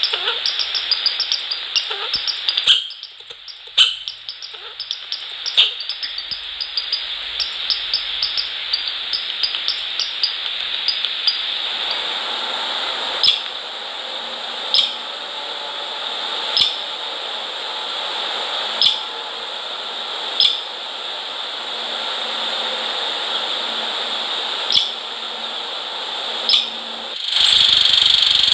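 Small birds at a feeder: a rapid series of short, sharp, high-pitched ticks over a steady hiss, thinning after about eleven seconds to single ticks every second or two.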